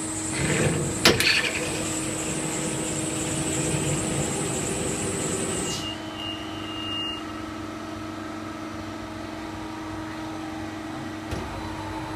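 CNC machine running with a steady hum and a high whine. The whine cuts off suddenly about six seconds in while the lower hum keeps going. There is a sharp click about a second in.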